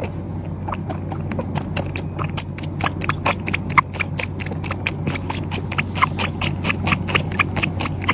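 Rapid, uneven tapping clicks, several a second, over a steady low hum.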